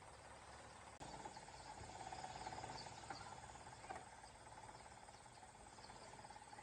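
Faint, steady insect trill starting about a second in, with fainter higher chirps over it.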